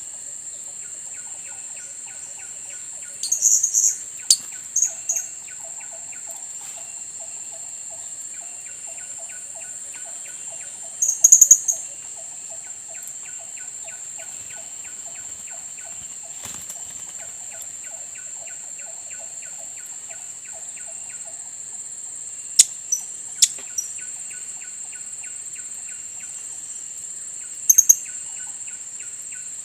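Blue-crowned hanging parrots (serindit) giving short, sharp, high-pitched calls in a few brief clusters, over a steady high insect drone and a faint fast rhythmic chatter.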